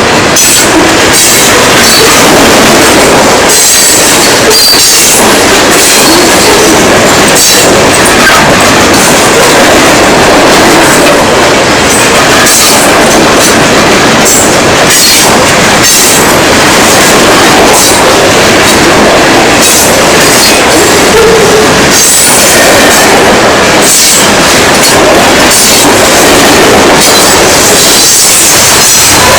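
Norfolk Southern freight train's coil cars rolling past close by: loud, steady wheel-on-rail noise with irregular clicks of wheels over the rail joints and brief, recurring high-pitched wheel squeal.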